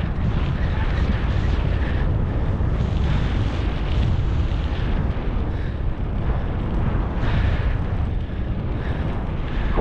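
Wind buffeting a GoPro's microphone on a moving bicycle: a steady, loud, low rumble of wind noise.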